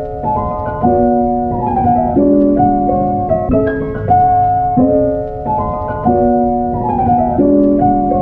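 Background music: piano (or electric piano) playing a repeating pattern of chords and melody notes.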